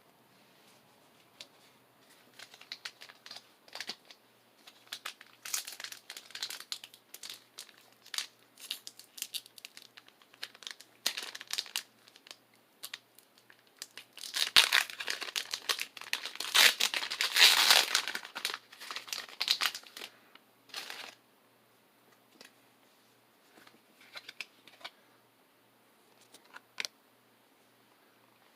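Foil booster pack wrapper crinkling as it is handled, with a loud, dense stretch of crinkling and tearing about halfway through as the pack is torn open; a few faint crinkles near the end.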